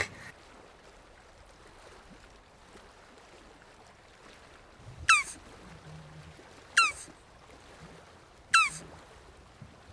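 Three short animal calls, each a quick chirp falling in pitch, about a second and a half to two seconds apart, over a faint background.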